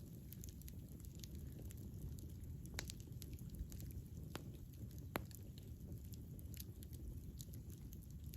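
Campfire burning with a low, steady rumble of flames and frequent small crackles, with a few sharper pops about three and five seconds in.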